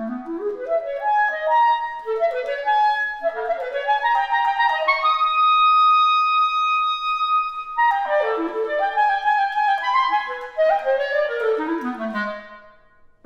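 Solo clarinet playing quick rising runs that climb to a long held high note, then quick falling runs that sink back down and fade away near the end.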